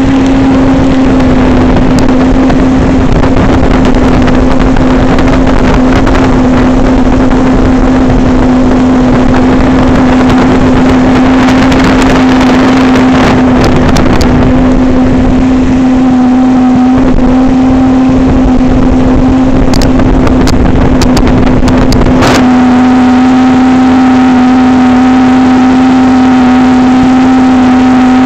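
Motorboat engine running at a steady, high speed with a loud constant note, over rushing wind and water noise. About 22 seconds in, the rushing drops away abruptly, leaving the steady engine note clear.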